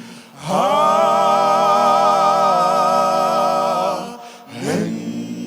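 A gospel singer sliding up into one long held note with vibrato, then gliding into another note near the end.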